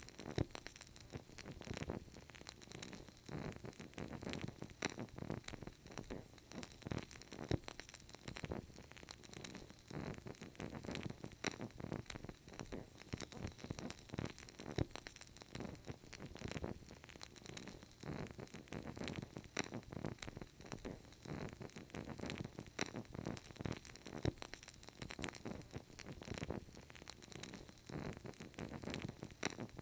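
Burning candle crackling: a dense, irregular run of small crackles and pops over a soft hiss.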